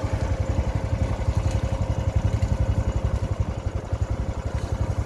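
Small tour boat's engine running steadily, a rapid low chugging of about a dozen beats a second.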